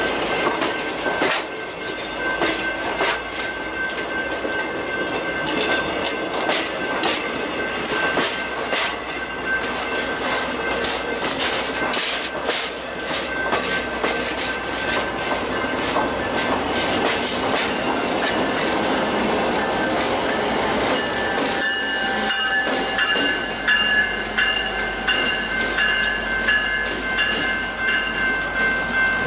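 Passenger railcars rolling slowly past, their wheels clicking over the rail joints with a steady high-pitched wheel squeal. The clicking thins out for the last third or so, and several higher squealing tones come in.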